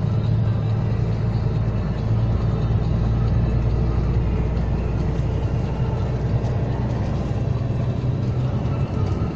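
Steady drone of a heavy truck's diesel engine and road noise heard from inside the cab while driving, low and even throughout.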